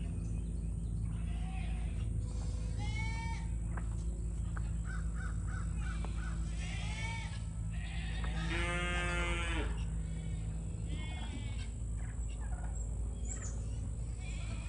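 Farmyard animal and bird calls over a steady low rumble: scattered short chirps, a quick run of repeated notes about five seconds in, and past the middle one longer, louder animal call lasting about a second.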